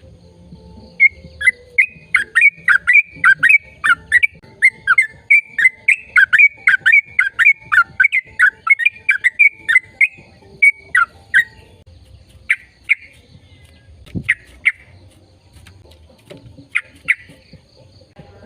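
A bird chirping: a fast run of short, sharp chirps that slide down in pitch, about three a second for some ten seconds, then a few chirps in pairs.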